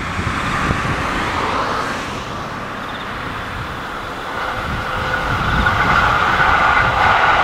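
E531-series electric commuter train approaching and running past: a steady rushing of wheels on rail that grows louder about halfway through as the train comes near.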